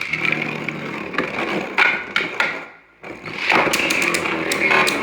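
Two Beyblade Burst spinning tops whirring and clashing in a plastic stadium, with sharp clicks as they hit. The sound dips briefly about three seconds in, then picks up again.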